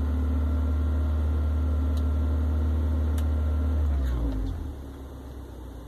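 A 1996 Honda Accord's engine, heard from inside the cabin, held at about 2,000 rpm while stationary. About four seconds in, the throttle is released and the revs fall back to idle, the sound dropping in pitch and getting quieter.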